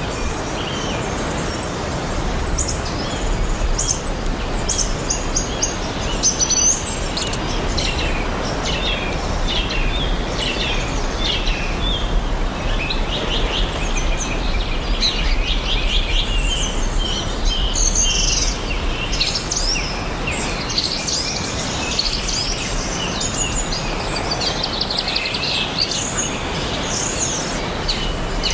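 Several songbirds chirping and trilling in quick, overlapping calls, over a steady even background hiss of outdoor ambience.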